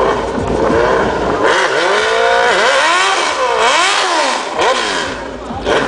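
A vehicle engine being revved over and over, its pitch climbing and dropping several times in quick succession.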